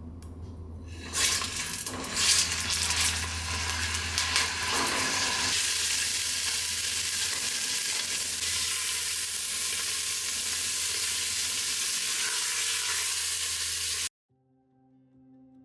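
Food frying in oil in a pan. A loud sizzle starts about a second in, with stirring clatter for the next few seconds, then settles into a steady sizzle that cuts off suddenly near the end.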